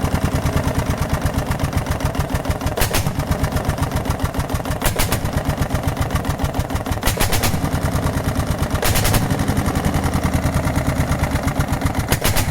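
Lanz Bulldog 5006 single-cylinder two-stroke hot-bulb semi-diesel running with no exhaust pipe or manifold fitted, firing in a rapid, even, very loud beat straight out of the open exhaust port. About five sharp cracks stand out over the beat, roughly every two seconds.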